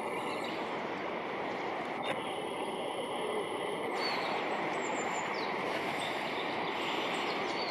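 Steady outdoor rumble of background noise, with a few faint, short, high bird calls over it.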